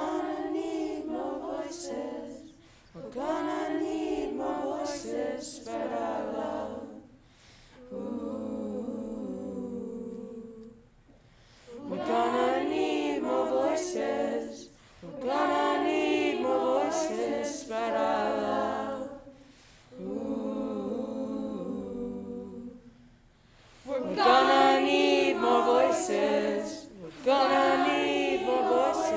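Unaccompanied group of voices singing a cappella in phrases of a few seconds each, with short breaks between phrases.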